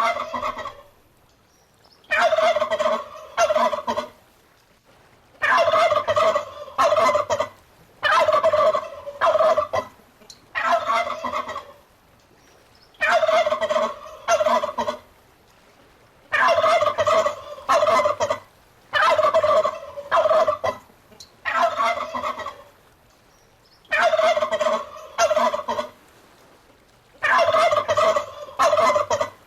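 Domestic turkey gobbling: rattling gobbles of a second or two each, repeated over and over every two to three seconds with short quiet gaps between them.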